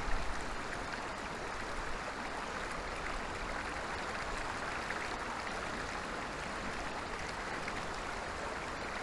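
Forest stream running steadily with an even rushing of water, and a brief low thump right at the start.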